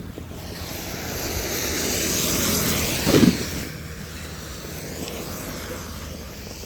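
A vehicle passing on a snowy road: tyre hiss swells for about three seconds, peaks with a short louder sound, then fades away.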